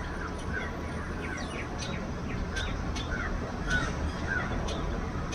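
Birds calling in a run of short chirps and sharp notes, several a second, over a steady low rumble.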